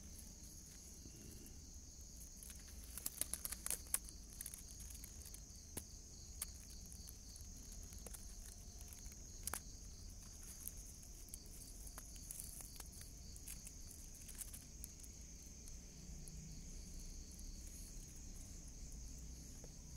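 A steady, high-pitched chorus of night insects, with scattered soft clicks and rustles: a cluster a few seconds in and a single sharper click about halfway.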